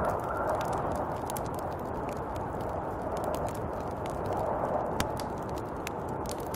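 Snowstorm wind blowing steadily, with scattered faint ticks throughout.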